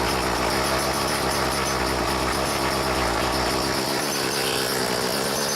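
Small gasoline engine running steadily just after a cold start that took repeated attempts.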